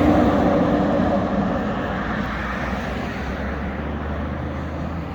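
Fire truck's diesel engine pulling away, its sound slowly fading as it moves off.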